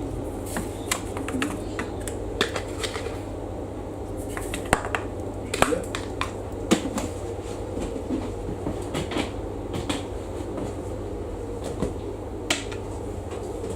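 Scattered light clicks, taps and knocks of things being handled, over a steady low hum.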